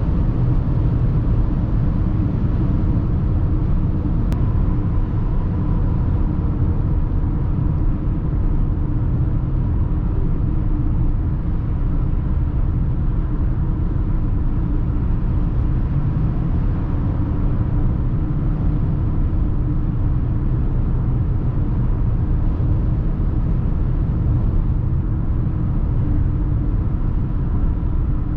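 Steady driving noise of a Mercedes GLA 220d 4MATIC at speed: a constant low rumble with no revving or gear changes.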